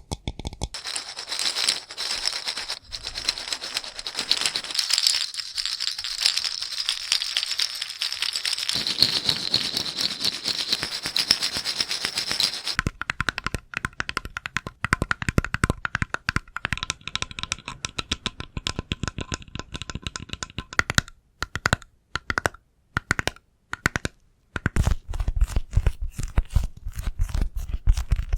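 Close-miked ASMR tapping and scratching on objects. A dense crackling rattle for about the first twelve seconds gives way to rapid tapping with a faint ring, which thins to scattered taps with brief pauses, then heavier, deeper taps near the end.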